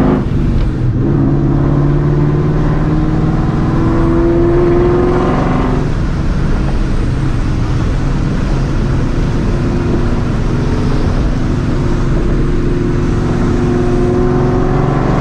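Supercharged 2004 Mustang GT's 4.6-litre V8 pulling hard through its loud catless, straight-piped exhaust. The engine note climbs steadily for about six seconds, drops suddenly, runs steadier, then starts climbing again near the end.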